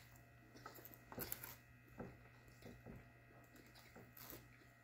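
Faint chewing of a bite of a fried chicken sandwich: a few soft, short crunches over near silence.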